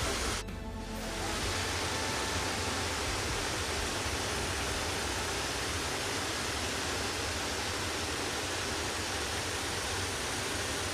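Waterfall rushing: a steady, even wash of falling water, after a short dip in level about half a second in.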